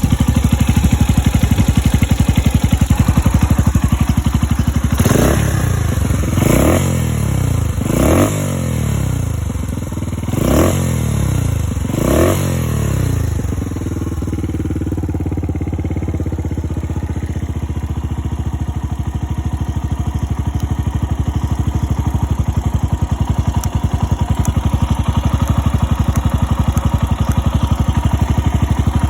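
Suzuki Grasstracker Big Boy's 250 cc air-cooled single-cylinder engine idling, blipped five times about a second and a half apart, each rev rising and falling back to idle, then idling steadily again.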